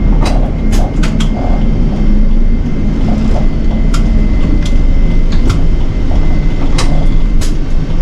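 Inside a Nishitetsu city bus: a steady low engine and road rumble, with sharp rattles and clicks from the cabin fittings scattered throughout.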